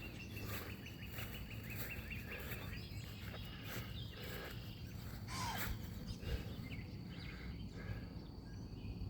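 Outdoor ambience: birds chirping, with a rapid run of short chirps in the first few seconds, over a low steady background rumble.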